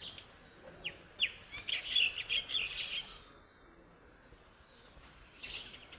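Bird chirping: a quick run of short, high chirps starting about a second in and lasting about two seconds, then a briefer burst of chirps near the end.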